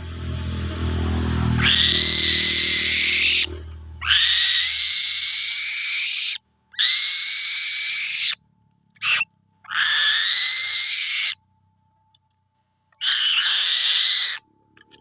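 A bird of prey screaming: a series of harsh, high calls, about five long ones and one very short one, each rising at the start and then held for one to two seconds, with abrupt silences between them. A low rumble runs under the first few seconds and fades out.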